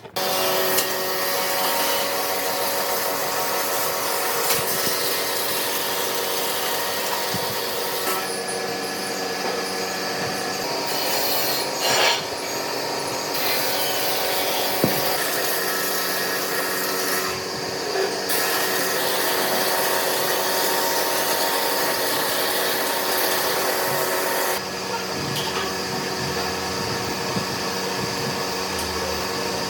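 Lathe running, with a tool or abrasive rubbing and scraping on the spinning epoxy-and-wood workpiece. The cutting noise shifts in texture a few times over a steady motor hum.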